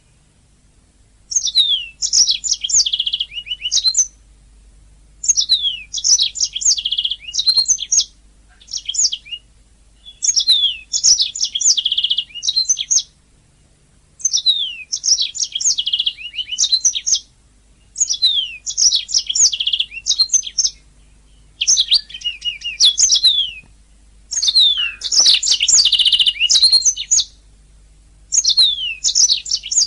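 Domestic canary singing: about nine phrases of rapid high trills and quick downward-sweeping notes, each two to three seconds long, with short pauses between them.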